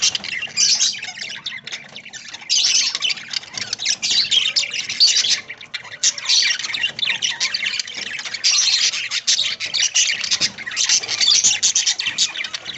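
A flock of budgerigars chattering and chirping together, in dense waves with brief lulls.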